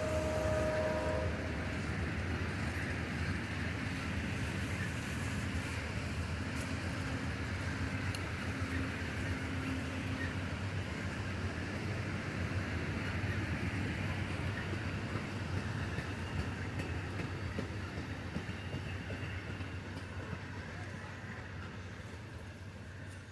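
SunRail commuter train rolling past the platform with a steady rumble of wheels on rail, its sound slowly fading near the end as it moves away. A brief steady tone is heard for about the first second.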